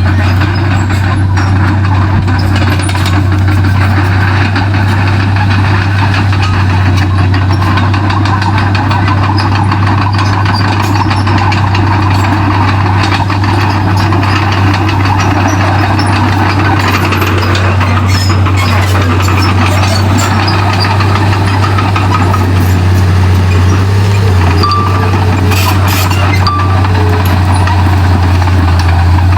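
Komatsu D31P crawler bulldozer's diesel engine running steadily, a loud constant low drone.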